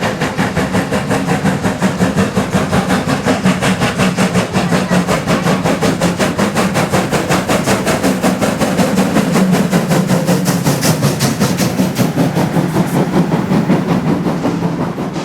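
Locomotive running on the track, giving a fast, even beat of about five or six strokes a second over a steady low hum. It grows fainter near the end.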